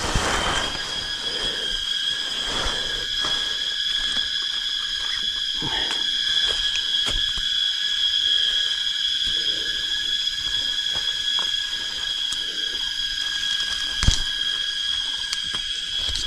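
A steady, high insect drone holding a few fixed pitches, over irregular rustling and soft knocks from tent fabric and gear being handled as a tent is taken down. A sharp click comes about fourteen seconds in.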